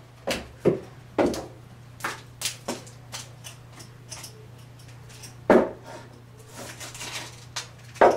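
Irregular knocks and thumps, the loudest about five and a half seconds in and another near the end, over a low steady hum.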